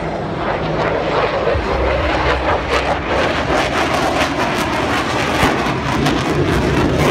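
F-15SG fighter jet flashing past at high speed: a loud jet roar that builds over the first second or so and turns rough and crackling from about two and a half seconds in.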